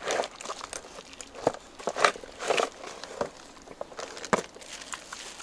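Plastic packaging crinkling and rustling as a small keyboard is unpacked from its bag and box, with a few sharp clicks and knocks of handling.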